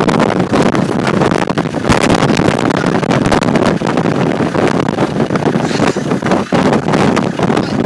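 Blizzard wind blasting across an outdoor microphone: a loud, continuous rush broken by many sudden gusty thumps.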